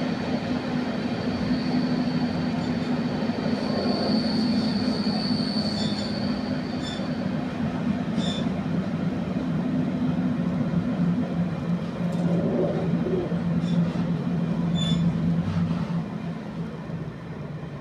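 Passenger train running on the rails, heard from inside the carriage: a steady low drone with a high squeal from the wheels for a few seconds early in the run and scattered clicks from the track. The sound gets quieter near the end.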